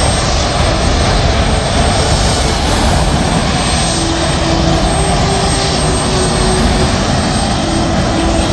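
Aircraft engines running steadily, a loud even noise heavy in the low end. About halfway through, a faint broken tone joins in.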